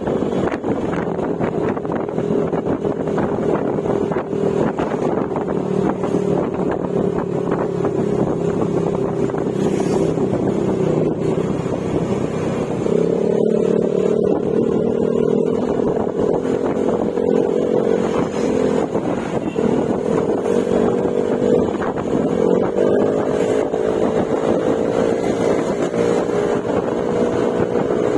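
Yamaha Mio Gravis scooter's single-cylinder engine running through an aftermarket Akrapovic exhaust with silencer while riding at a steady cruise. Its pitch steps up slightly about 13 seconds in and again near 23 seconds as the throttle opens.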